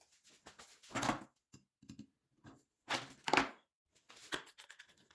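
Irregular knocks, clicks and clatter of objects being handled and set down, with louder bursts about a second in and twice around three seconds in.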